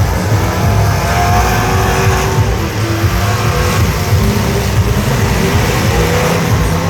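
Truck engines running loud and revving, with shifting engine tones over a dense rumble.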